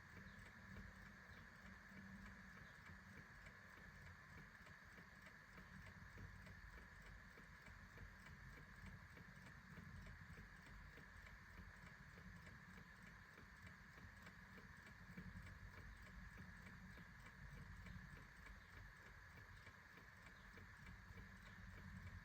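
A clock ticking steadily and faintly.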